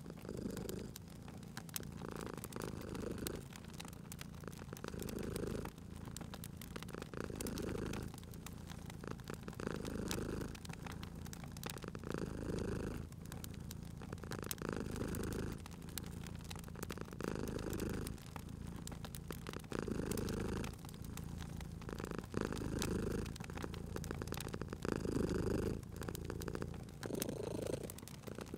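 Domestic cat purring steadily, the purr swelling and easing about every two and a half seconds with its breathing, over the scattered pops and crackles of a wood fire.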